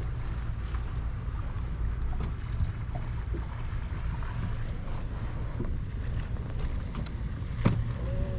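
Motorboat underway: its engine runs with a steady low rumble, under wind noise on the microphone. Scattered short slaps, likely the hull against the water, come through, with one sharper, louder knock near the end.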